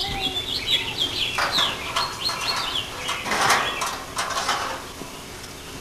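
Small birds chirping over and over in short, high, falling notes, with a few scuffing rustles mixed in, the loudest about three and a half seconds in.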